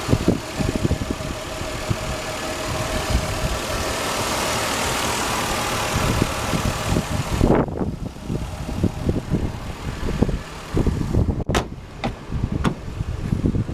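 2001 Lexus GS300's 3.0-litre inline-six idling under the open hood, a steady hiss and whir. About seven and a half seconds in the hiss falls away, leaving uneven low rumbling, and a single sharp knock comes near the end.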